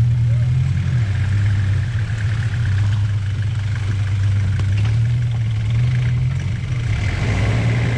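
Off-road 4x4 engine running steadily at low revs, its pitch shifting slightly as the driver creeps over rough ground.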